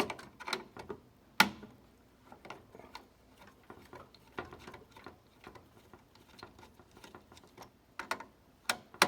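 Irregular small clicks and taps of hand tools on metal parts: a flat-blade screwdriver working screws and a lock nut being taken off at an electrical panel. One sharper click about a second and a half in.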